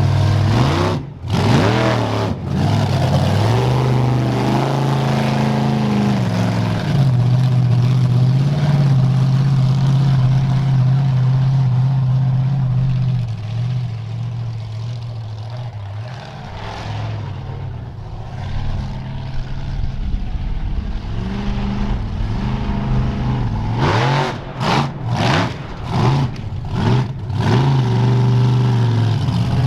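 Monster truck engine running and being revved, its note rising and falling, with a quick run of sharp throttle blips about three-quarters of the way through.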